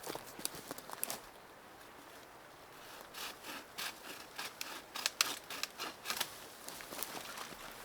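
A hand tool working wood: a few sharp clicks at first, then a run of short rasping strokes, several a second, from about three seconds in.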